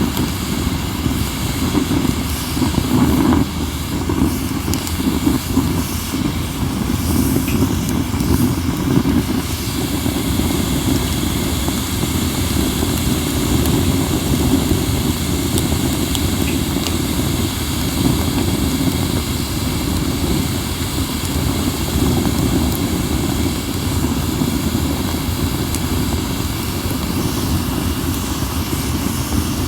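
Wood fire of acacia and mixed firewood burning, under a steady low rumble of wind on the microphone, with a few faint crackles.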